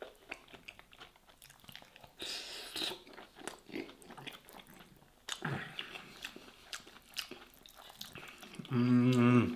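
Close-up mouth sounds of a man chewing a mouthful of soft stuffed vegetables, with many small wet clicks and smacks. Near the end, a short burst of his voice.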